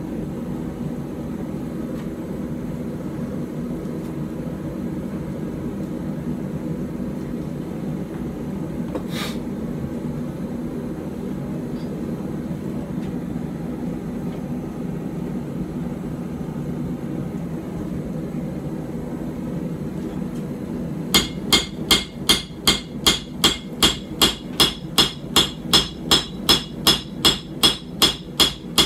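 A forge running steadily for about twenty seconds, with one light metal clink about nine seconds in. Then a hammer beats a hot puukko blade on an anvil at an even pace of about three ringing blows a second.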